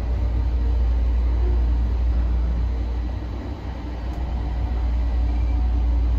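Automated people-mover train running along its guideway, heard from inside the car: a steady low rumble with faint tones above it.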